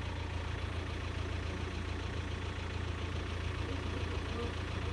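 A steady, low engine hum that does not change.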